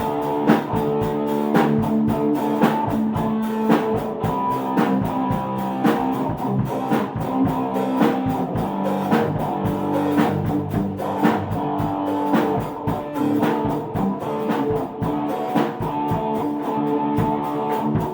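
A rock band playing: guitar chords over a drum kit keeping a steady beat.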